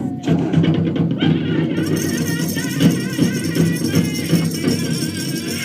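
A powwow drum group starts an honor song: the big drum is beaten in a steady beat, with singing and a jingling rattle over it.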